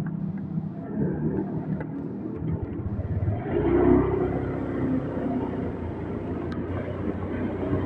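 Motorbike engine running while riding through traffic, with road noise; a deeper rumble comes in about three and a half seconds in.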